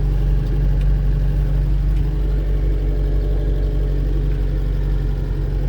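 Fiat 147 pickup's four-cylinder engine running steadily at constant revs while driving, its leaking brake-booster vacuum hose now replaced so it no longer stumbles or floods.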